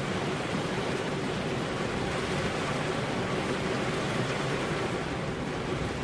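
Rain and wind making a steady, even rushing noise.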